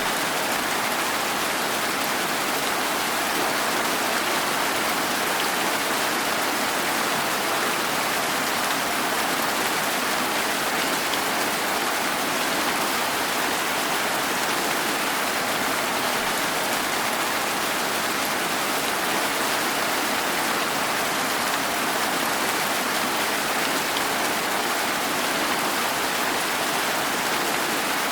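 Steady rain falling, an even hiss of drops with faint individual patters, unchanging throughout.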